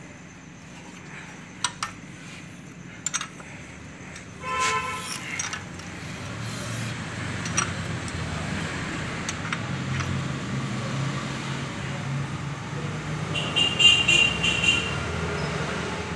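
Passing road traffic: a vehicle horn toots briefly about four and a half seconds in, then a vehicle engine hum swells and a higher horn-like tone sounds near the end. A few sharp clicks come in the first three seconds.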